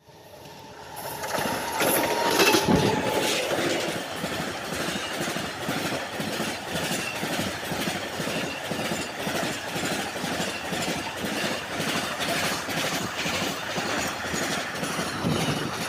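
Container freight train passing at speed close by, its wheels running over the rail in a steady rhythmic clatter. It swells in over the first two seconds, with a short steady tone about two seconds in.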